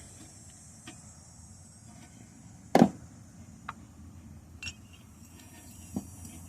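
A socket wrench with a swivel and extension clicking and knocking against the engine while loosening a spark plug: a few scattered clicks, with one sharp metallic knock about three seconds in.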